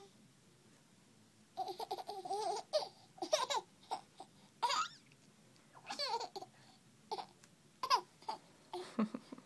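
A young child laughing and babbling in a string of short, high-pitched bursts, starting about a second and a half in.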